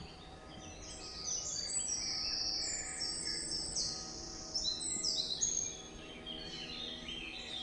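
A songbird singing a run of high, fast chirps and trills, lasting about five seconds and easing off near the end.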